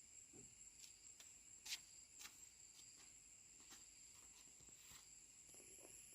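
Near silence: a faint, steady, high-pitched hum, with a couple of soft clicks about two seconds in.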